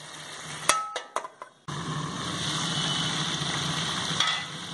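Chicken and potatoes frying in oil in a steel wok: a few light knocks, then a steady sizzle that starts abruptly about a second and a half in.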